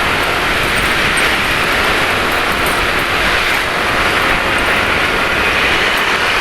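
Motorbike traffic heard from a moving scooter: a steady rush of engine and road noise, with no single event standing out.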